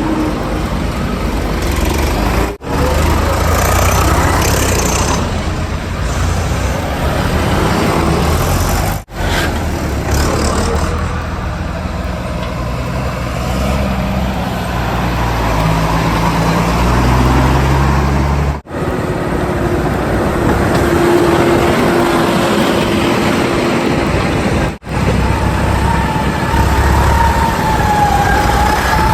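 Heavy diesel machinery working: the engines of a backhoe loader and tipper trucks running, with strong low rumble, cut abruptly several times. A steady, slightly wavering high tone comes in near the end.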